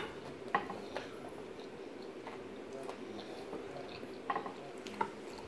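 Wet mouth sounds of someone chewing a mouthful of pasta: a few short smacks and clicks over a steady low fan hum.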